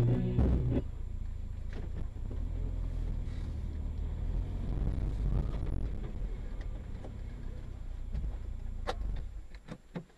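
Music cuts off about a second in, then a car's low steady road rumble follows, with a few faint clicks near the end.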